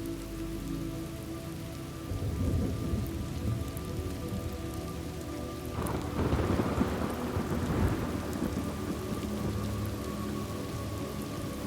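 Steady rain with rolling thunder: a low rumble about two seconds in, then a louder, longer roll starting about six seconds in and fading out.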